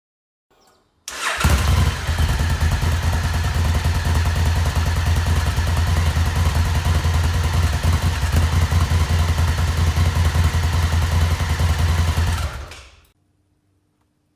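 Honda CRF1000L Africa Twin's 998 cc parallel-twin engine breathing through a Blackwidow full exhaust system: it is cranked, catches about a second in, and idles steadily with a deep low rumble. A little after twelve seconds it is switched off and dies away.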